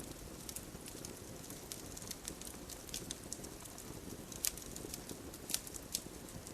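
Wood campfire crackling: irregular sharp pops and snaps, a few louder ones among them, over a steady low hiss of the burning fire.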